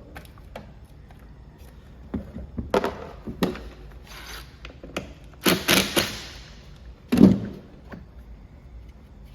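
Clicks, knocks and scraping of tools and small parts being handled during trimmer clutch repair work, busiest in the middle, with a heavier knock near the end.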